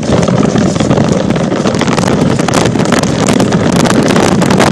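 Loud rushing and crackling noise on a handheld GoPro's microphone, wind and rubbing against the tiny camera as it goes down.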